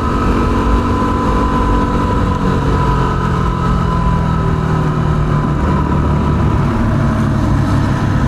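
Yamaha WR250R's single-cylinder four-stroke engine running steadily while riding along the road, heard from on the bike with road noise underneath.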